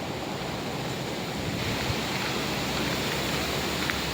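Steady rushing noise of wind on the microphone, a little louder from about a second and a half in.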